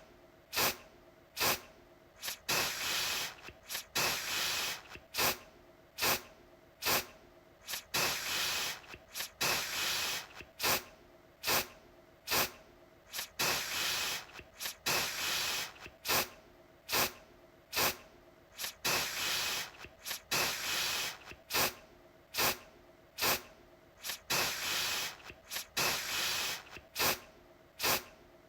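Aerosol deodorant can spraying in many short bursts, about one or two a second, each starting sharply, with now and then a longer hiss of a second or so.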